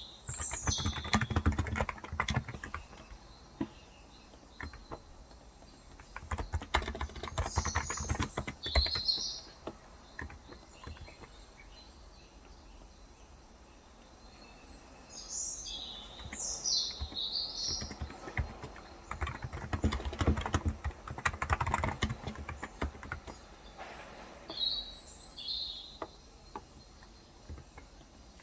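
Typing in several bursts on a Cox Endeavor tenkeyless keyboard with 35 g electrostatic capacitive (Topre-style) switches. Short bird chirps come between the bursts.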